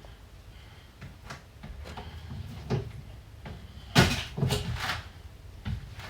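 Kitchen clatter: a string of knocks and clunks, such as cupboard doors and dishes being handled during breakfast making, with a loud cluster of several sharp knocks about four seconds in.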